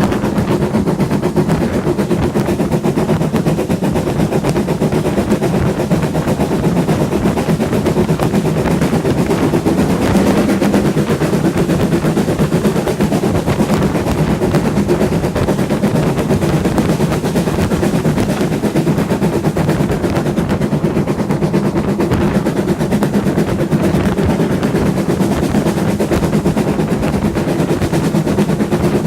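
Heritage railway train in motion: a steady loud rumble with a fast, continuous rattle of wheels and running gear on the track.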